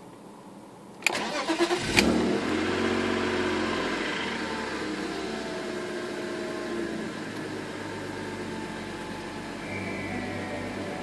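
Cold start of a BMW E36 328i's M52 inline-six, heard from inside the cabin. About a second in, the starter cranks briefly; the engine catches at about two seconds. It then eases down from a raised cold idle to a steady idle near 1,000 rpm.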